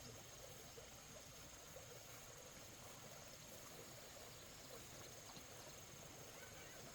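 Near silence: faint background ambience with a steady, thin high-pitched tone.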